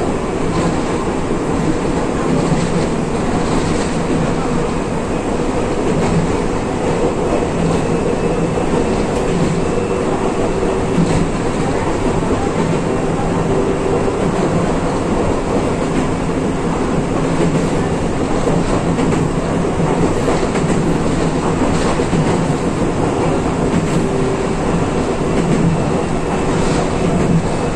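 Electric train running along the rails, heard from the driver's cab: a steady rumble of wheels on track with a low steady hum, and a few faint clicks from the rails.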